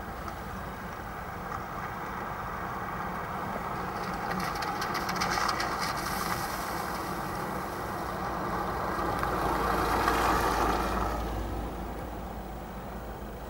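Passenger train running past over a level crossing, its rushing rail noise building steadily to a peak and then dying away quickly near the end. Rapid wheel clicks come through about five seconds in.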